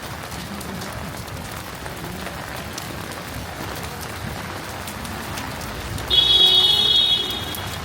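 Heavy rain falling steadily, with scattered drop ticks. About six seconds in, a loud high-pitched squeal sounds for about a second and a half.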